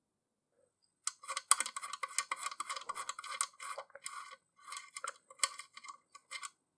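A quick run of small metallic clicks, clinks and scrapes, as when metal tools or parts are handled. It starts about a second in and stops shortly before the end.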